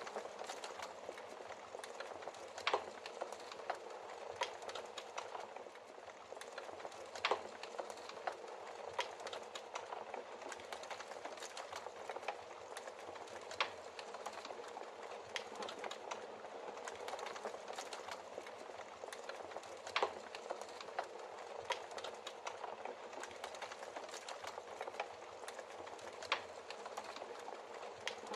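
Wood logs burning in a fireplace: a steady hiss and fine crackle with frequent small snaps and about five louder pops spread several seconds apart.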